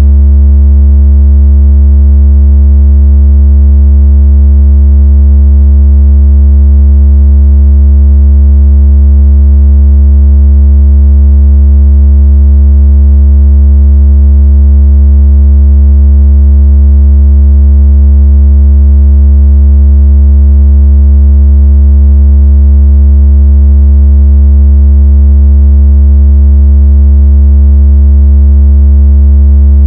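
Loud, steady, deep electronic tone with faint overtones, a synthesized low-frequency vibration tone of the kind played to shake water out of a phone speaker. It holds one pitch without a break or change.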